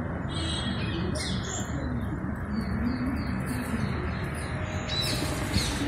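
Birds calling: short high chirps come and go throughout, over low wavering calls from about one and a half to four seconds in, against a steady background noise.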